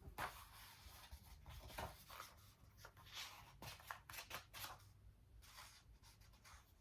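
Soft rustling of paper as a book is handled and its pages are leafed through: a run of short brushing rustles lasting several seconds, stopping near the end.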